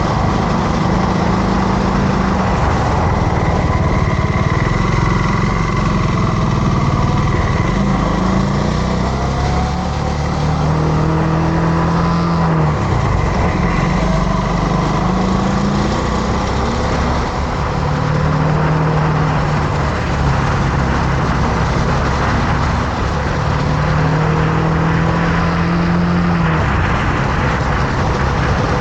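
Motorcycle engine running on the move, its pitch rising and falling several times with throttle and gear changes, over a steady rush of wind and road noise.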